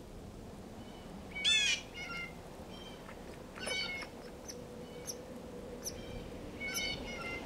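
Birds calling at a winter feeder: short nasal calls at irregular intervals, the loudest about one and a half seconds in, with thin high chirps between them.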